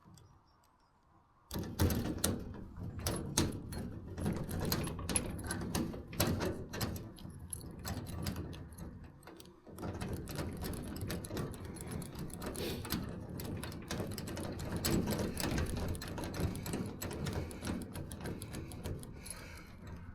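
Rapid, irregular metallic clicking and rattling of a small mechanism being worked by hand, in two long stretches with a short break about ten seconds in.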